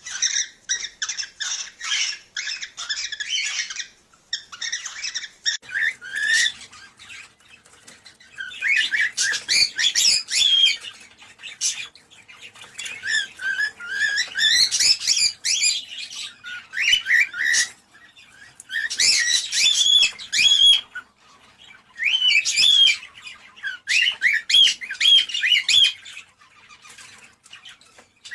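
Cockatiels chattering and whistling in bursts of rapid chirps and short gliding whistles, each run lasting a few seconds with brief pauses between: the courting chatter used to prompt pet cockatiels to breed.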